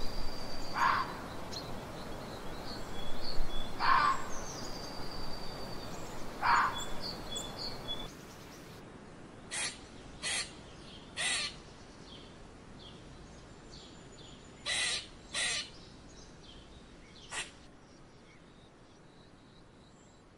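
Red fox giving three hoarse, falling barks over twittering birds. After a change of scene about eight seconds in, ring-tailed lemurs give six short, sharp calls.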